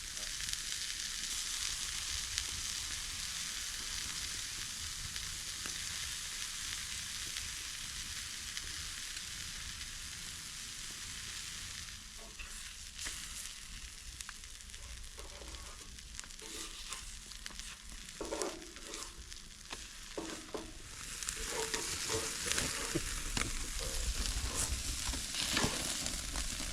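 Food sizzling as it fries in a pan, a steady hiss that eases about halfway through and picks up again later, with a few light knocks in the second half.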